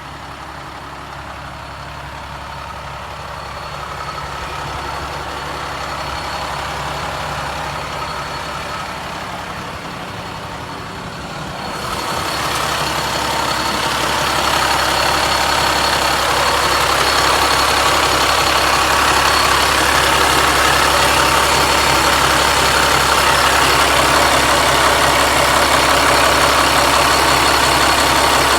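Cummins L10 diesel engine of a vacuum truck idling steadily. About twelve seconds in, a steady rushing sound with a high whine comes in and grows louder over a few seconds, then holds.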